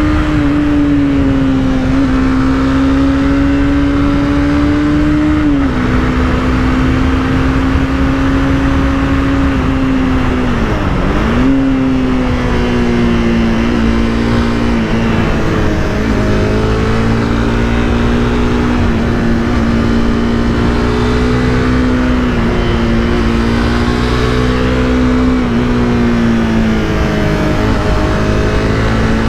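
Honda CBR300R's single-cylinder engine running at steady cruising revs. The pitch drops briefly a few times as the throttle eases, with a sharp dip and recovery about eleven seconds in, like a quick gear change.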